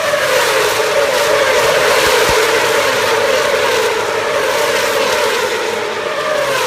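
A pack of Moto2 racing motorcycles with 600cc Honda inline-four engines passes at high revs, many engine notes blended together. The combined note slides slowly down in pitch as they go by.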